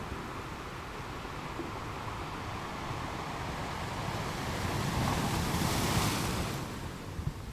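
Sea waves washing onto a shore: a steady rush of surf that swells into one louder breaking wave about two thirds of the way in, then falls back.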